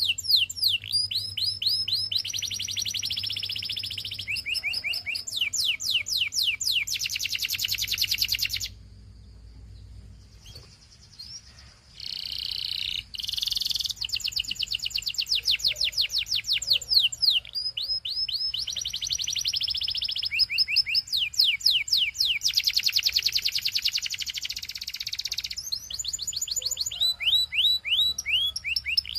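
Canary singing: phrases of rapidly repeated falling whistles and fast trills, each tour a second or two long, with a break of about three seconds around a third of the way in.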